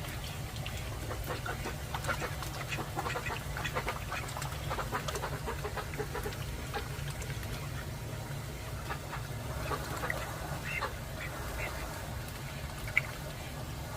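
Call ducks quacking in quick runs of short calls, busiest in the first half and again past the middle, over a steady low hum. A single sharp click comes near the end.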